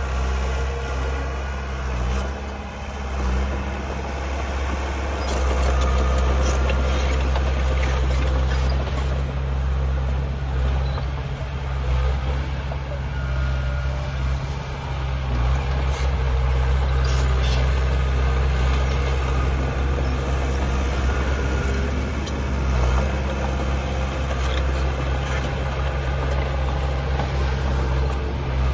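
Heavy diesel engines of earthmoving machinery running steadily, a deep continuous hum, with a few faint clicks over it.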